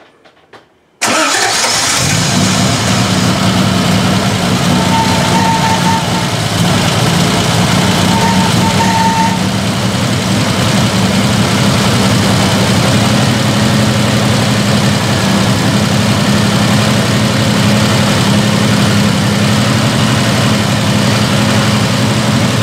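1968 Triumph TR250's 2.5-litre straight-six firing about a second in and then running steadily, its chokes held on by hand. The ignition timing is not yet set after a Pertronix electronic ignition was fitted.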